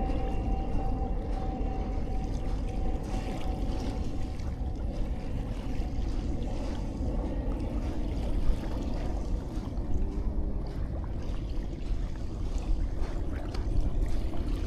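Sea waves washing and lapping on a sandy shore, a steady watery wash with low rumble from wind on the microphone. A faint steady hum fades out about four seconds in.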